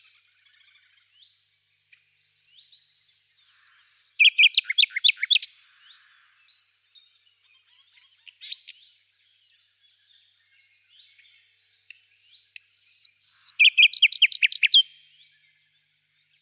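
A songbird singing two similar phrases about ten seconds apart. Each phrase is a thin, high, drawn-out note followed by a quick run of loud, sharp notes, with faint chirps in between.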